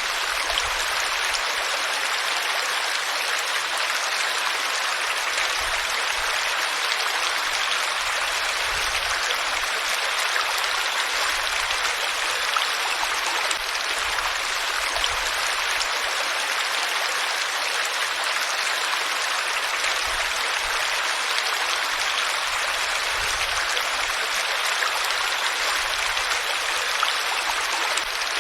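Flowing water: a stream's steady, even rushing.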